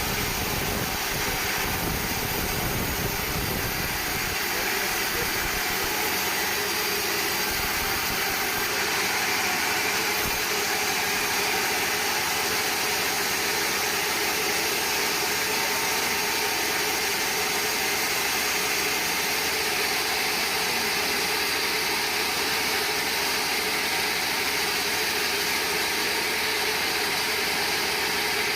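Band sawmill running with a steady mechanical noise, with some extra low rumble in the first ten seconds or so.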